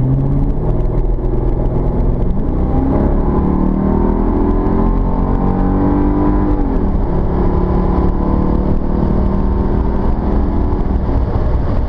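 Mercedes-Benz E55 AMG (W210) V8 through its stock exhaust, heard from inside the cabin while driving. The engine note climbs under acceleration, drops sharply at an upshift about seven seconds in, then holds steady.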